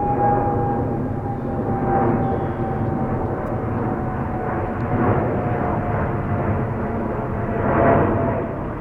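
Jet airliner's engines running loud and close: a steady rumble with a high whine that slowly falls in pitch.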